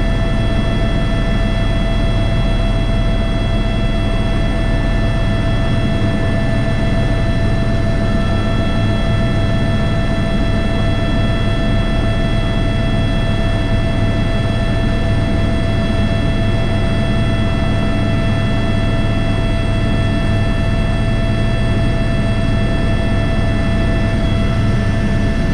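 Airbus H125 helicopter running in flight, heard from inside the cockpit: a steady, loud drone of rotor and turbine with a constant high-pitched engine whine.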